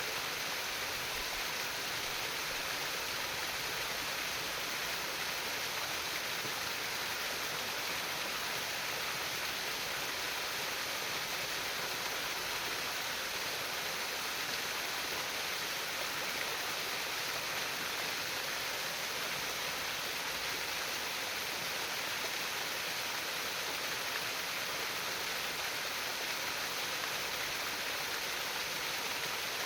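Water flowing and trickling in a stream, a steady babbling hiss with no breaks.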